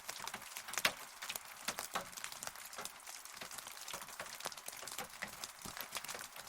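Rain falling: a steady hiss with many separate drops striking close by at irregular moments. One drop strike just under a second in is the loudest.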